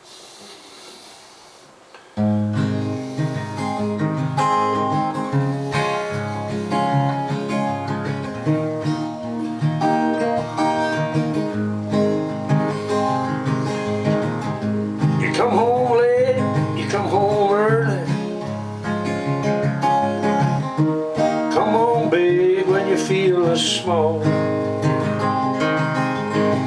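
Acoustic guitar strummed as a song's instrumental intro, coming in suddenly about two seconds in after a quiet start. In the second half a wavering lead melody plays over the chords.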